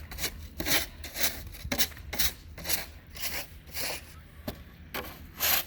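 Footsteps crunching in packed snow, a short crunch about twice a second at walking pace.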